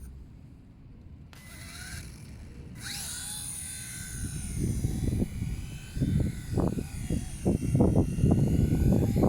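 WLtoys V911 micro RC helicopter's motors and rotors whining at a high, wavering pitch, coming in about a second in. Strong wind buffets the microphone in low gusts that grow louder through the second half and become the loudest sound.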